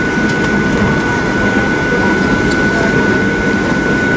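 Steady cabin noise of a Boeing 737-800 airliner: a low rumble with a steady high whine running over it.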